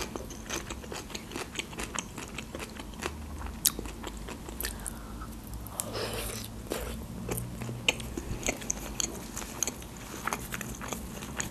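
A person biting and chewing food with chopsticks, heard as many small, irregular mouth clicks and crunches.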